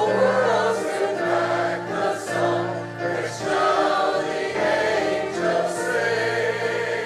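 A choir singing a sacred song with instrumental accompaniment, low notes held steady beneath the voices.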